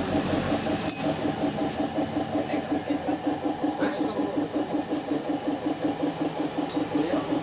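A small engine or motor running with a fast, even pulse, about eight beats a second, that cuts off abruptly at the end.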